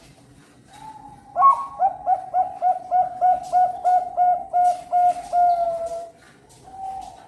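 Zebra dove (perkutut bangkok) singing: a soft opening coo, then a fast even run of about a dozen clipped coos, roughly three a second, ending in one drawn-out note, with a softer coo near the end.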